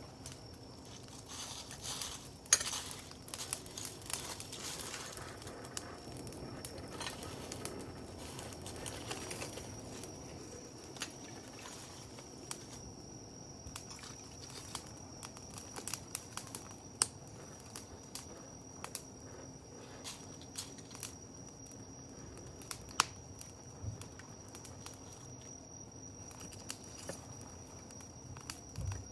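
Wood campfire crackling, with irregular sharp pops and snaps; the loudest snaps come about two and a half seconds in and again near the end.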